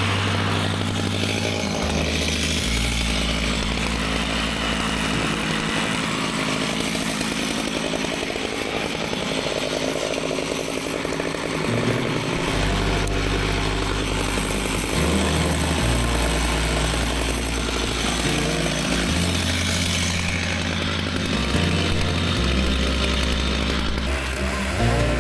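Chainsaw mill with a 74-inch bar running steadily under load as it cuts along a log, with a music bass line stepping between notes underneath.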